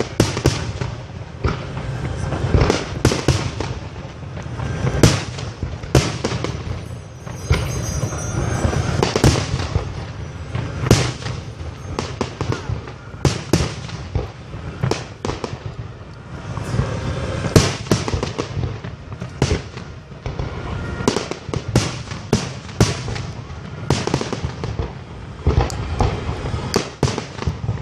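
Fireworks display: aerial shells and comets bursting in a rapid, irregular barrage of sharp bangs, often several a second, over a low rumble, with a few louder bangs standing out.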